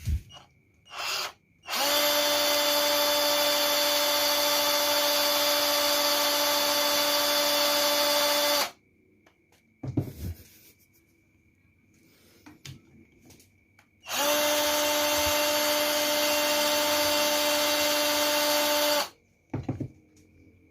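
Maktec MT081 cordless drill, running on a Makita 18V LXT battery, spun up twice at a steady speed with no load: about seven seconds, then a pause, then about five seconds, each run starting and stopping abruptly. Between the runs there are a few short clicks and knocks from handling.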